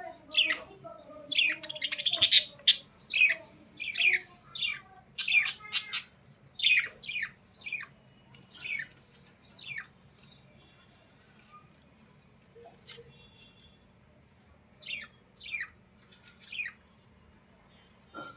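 A bird calling in quick, sharp chirps and squawks, each sweeping down in pitch. The calls come thick and fast for the first several seconds, thin out to a few in the middle, and pick up again in a short run near the end.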